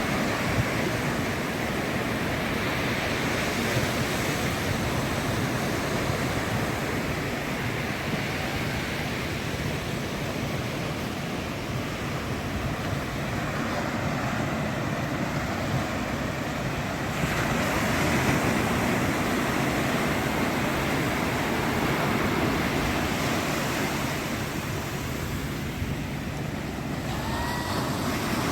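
Ocean surf washing onto a sandy beach: a steady roar of breaking waves that swells louder a little past halfway.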